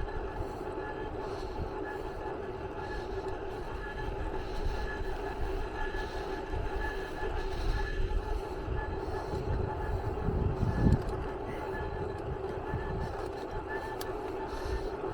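Steady mechanical running noise: a low rumble under a constant hum, with a faint high-pitched tone that pulses on and off and a few louder low thumps partway through.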